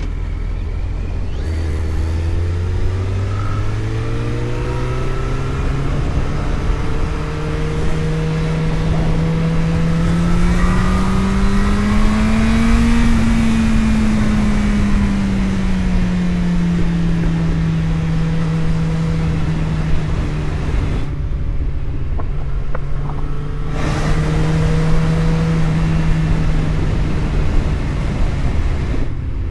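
Car engine and road noise while driving: the engine note rises steadily under acceleration to a peak about halfway through, then eases back and holds a steady cruising pitch, with the sound briefly turning duller for a couple of seconds near the end.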